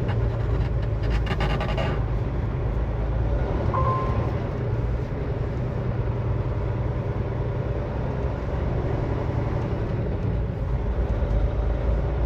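Semi truck's diesel engine running steadily at low speed while manoeuvring, with a short burst of noise about a second in and a brief high tone around four seconds in.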